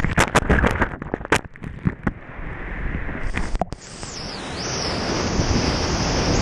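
Water splashing and rushing over an action camera riding on a surf kayak, with wind buffeting the microphone. A run of sharp crackles comes in the first two seconds, the sound cuts out for an instant, then a steady rush builds toward the end.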